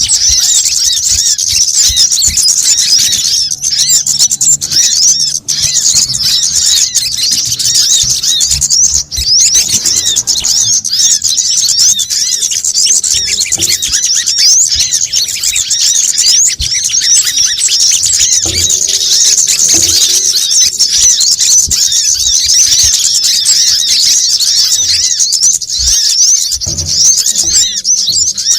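Dense, unbroken twittering of sunbirds: many rapid, high, thin chirps overlapping at once, a busy lure-call recording meant to draw sunbirds in.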